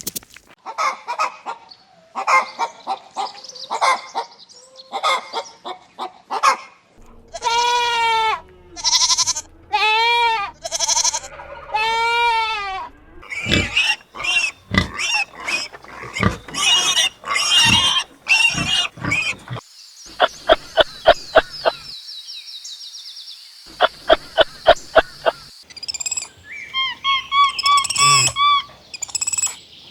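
Farm animal calls following one another, changing every few seconds. Long pitched calls that rise and fall come in the first half, then a quick run of short sharp calls, then a steady high hiss with rapid pulses, and high chirps near the end.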